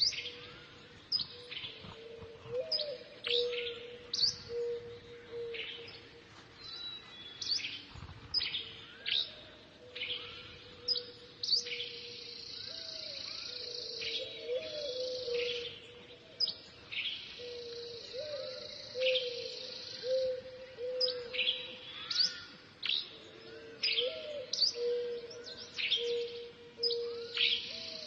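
Small birds chirping again and again in short, sharp, falling calls, over a steady lower tone that wavers now and then.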